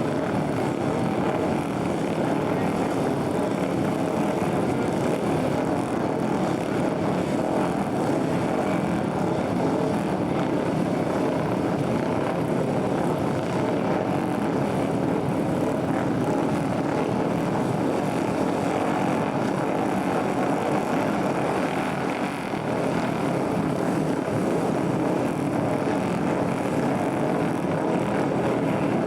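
A field of flat-track racing motorcycles running together around a dirt oval after a race restart, their engines a steady, dense mass of sound with no single bike standing out.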